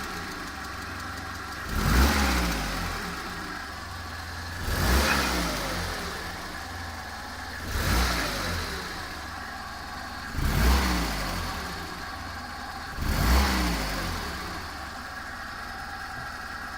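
ZMZ-406 four-cylinder petrol engine idling and blipped five times, about every three seconds, each rev falling back to idle. The throttle is blipped to bring out an intermittent foreign knock or ring that the owner is tracing to the block.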